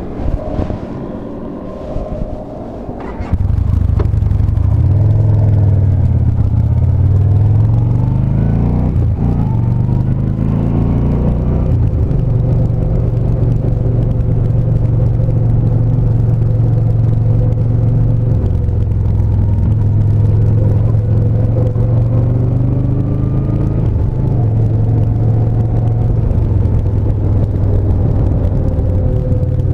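Yamaha SCR950's air-cooled V-twin engine on a ride: quieter for the first three seconds, then suddenly much louder, with its pitch rising and dropping through several gears before settling into a steady low running sound.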